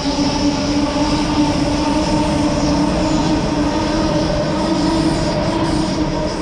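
A train running through the station: a steady whine held over loud, even wheel and rail noise.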